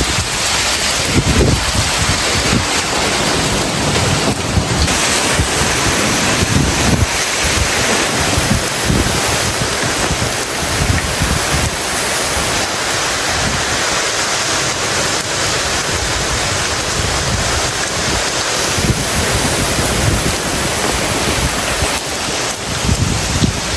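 Heavy tropical storm rain hissing steadily while gusts of wind buffet the microphone in irregular low rumbles.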